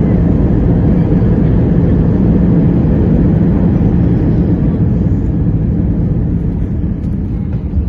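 Airbus A320 jet noise during landing: a loud, steady rumble that eases slightly near the end.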